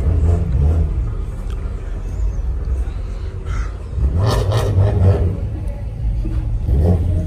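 A car's engine rumbling at low speed, with a louder swell about four seconds in.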